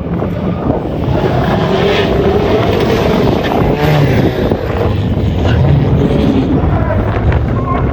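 Rally car's engine revving hard as it is driven on a stage, its pitch rising and falling with the gear changes, with wind on the microphone.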